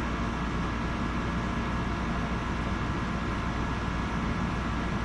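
Steady background hum and hiss, unchanging, with no distinct clicks or knocks.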